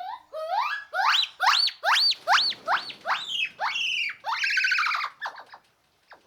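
An animal calling: a rapid series of about ten pitched calls, each rising and falling, the calls climbing higher and then dropping, ending in a longer held call.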